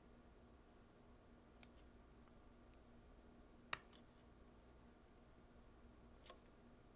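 Near silence with a few faint, sharp clicks, the loudest a little before four seconds in and another near the end, from a ribbon cable and its small plastic connector being handled and seated inside a camera.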